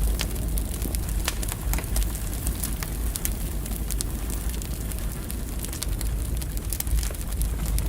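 Firewood burning in a fireplace, with frequent irregular sharp crackles and pops over a steady low rumble.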